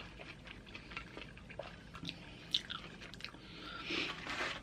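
A person chewing loaded nachos with tortilla chips close to the microphone: many small, irregular crunches and mouth sounds.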